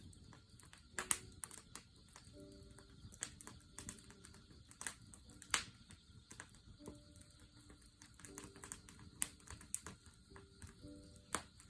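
Wood campfire crackling with irregular sharp snaps and a few louder pops, over a faint steady chirring of grass insects.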